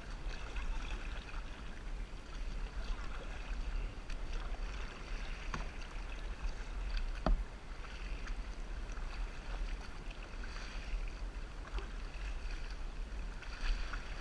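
Water sloshing and lapping around a kayak on the ocean, with a steady low wind rumble on the microphone. Two brief knocks, the louder one about seven seconds in.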